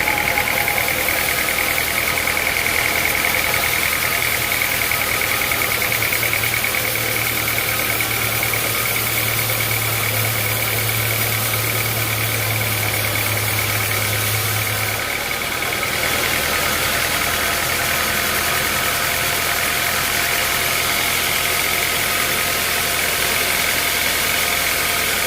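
Sawmill machinery running steadily, a constant mechanical drone with a high whine over it. A low hum swells about a quarter of the way in and cuts off suddenly a little past the middle.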